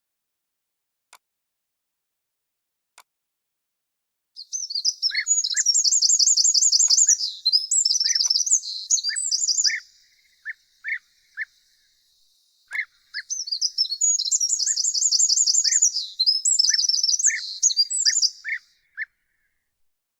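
A songbird singing two long, high, rapidly trilling songs of about five seconds each, the first starting about four seconds in. Through and between them a second bird gives short, lower single call notes.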